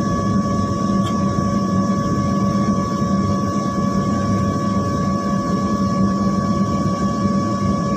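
Steady drone inside an airliner cabin before takeoff, the aircraft's engines and air systems running with a constant hum of several fixed tones.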